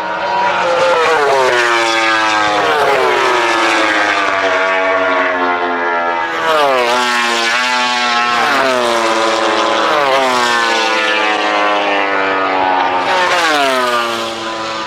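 MotoGP racing motorcycles' 1000 cc four-stroke engines at high revs, several bikes passing one after another, the engine note falling in pitch with each pass.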